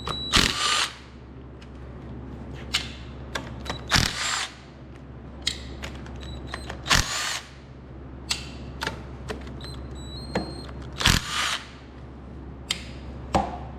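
Cordless drill-driver spinning out the oil pan bolts on a Kohler K241 engine, in short whirring bursts about four times, with small clicks and clinks between.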